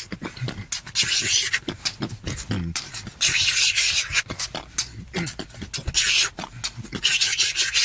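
Beatboxing: a vocal drum beat of quick mouth kick thumps and clicks, broken four times by long hissing cymbal sounds.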